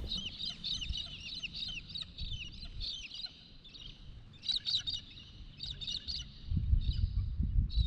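Birds calling: rapid runs of short, downward-sliding chirps, with clusters of sharper calls about halfway through and again near the end.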